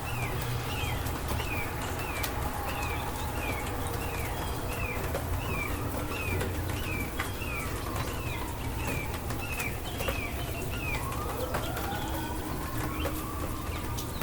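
Steady rain ambience with scattered faint drip ticks. Over it a bird repeats a short falling chirp about one and a half times a second, stopping about three-quarters of the way through. Slow rising and falling tones sound underneath in the second half.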